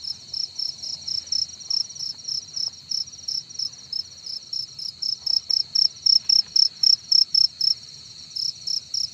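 A male cricket chirping loudly close by, a steady run of short high chirps about three a second over a continuous high trill in the background, with a brief pause near the end.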